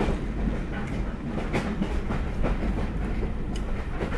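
Train running along the track: a steady low rumble with irregular clicks and knocks from the wheels on the rails.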